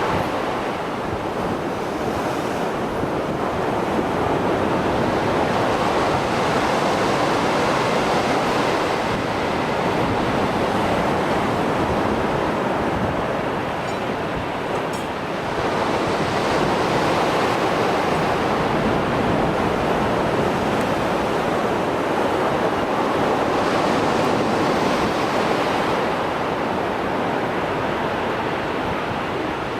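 Rough Mediterranean surf after a storm: waves breaking and washing continuously in a dense rushing roar that swells and eases, with a brief lull about halfway through.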